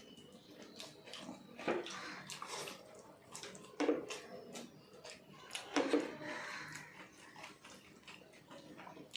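Wet eating sounds: chewing and the smacking of mouths and hands in food, with many small clicks and three louder knocks.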